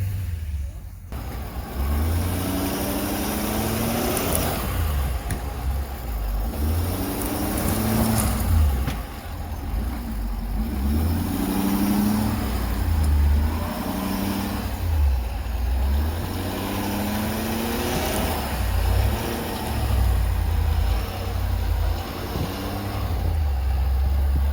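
Motor vehicle driving, its engine note rising again and again as it accelerates, over a steady low rumble and road noise.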